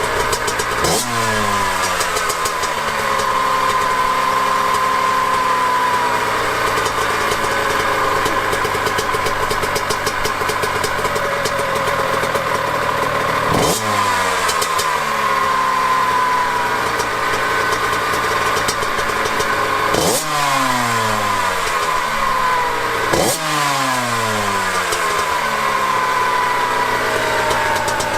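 Honda CR85RB's 85cc two-stroke engine running, revved sharply four times, each time the revs falling slowly back toward idle.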